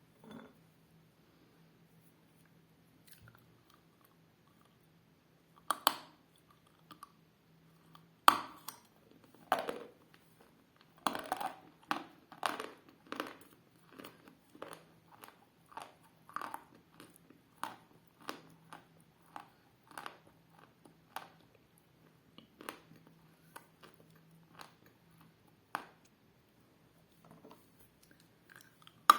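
Biting and chewing chunks of dense, dry edible clay: short, sharp crunches start about six seconds in, the loudest about eight seconds in, then a run of crunching chews that grows sparser toward the end. A faint steady hum lies underneath.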